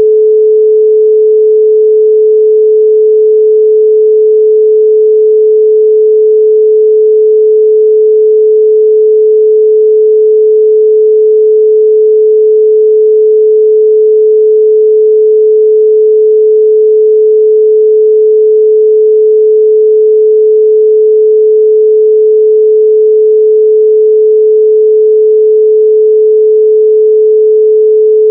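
A 432 Hz pure sine tone, held steady and loud with no change in pitch or level.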